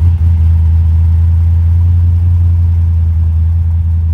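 Monte Carlo SS V8 engine idling steadily and loudly just after starting.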